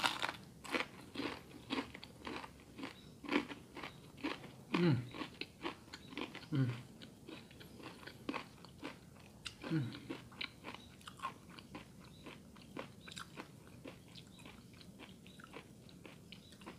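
Crisp flour-battered fried chicken crust crunching as it is bitten and chewed up close, in many quick crackly bites.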